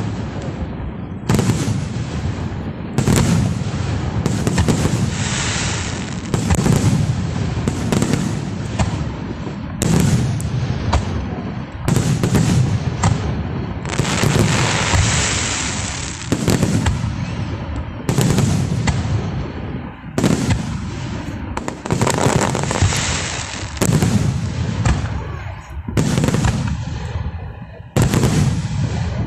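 Aerial fireworks bursting one after another, a sharp bang every second or two with echoing rumble after each, and a long crackling hiss about halfway through.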